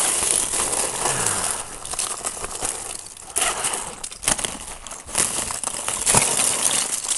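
Ice crackling and crunching in uneven stretches of dense small clicks.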